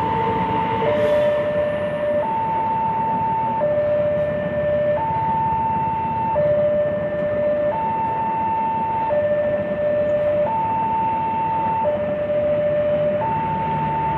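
Two-tone hi-lo siren, switching between a higher and a lower note about every one and a half seconds, over a steady rushing noise.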